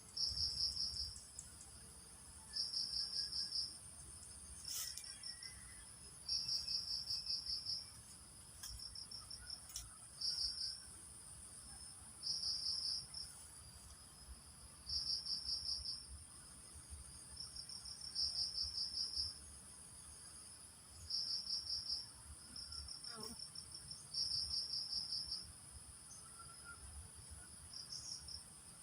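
Insects calling, likely crickets: one gives rapid pulsed trills about a second long, repeating every three seconds or so, over a steady high-pitched buzz from others.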